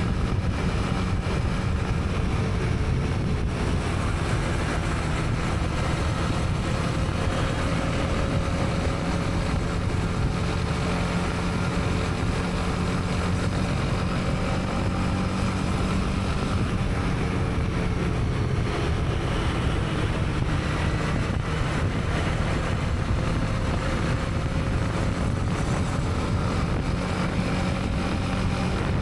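Honda CB300R's single-cylinder engine running at a steady cruise, an even drone that holds level with only slight rises and falls in pitch.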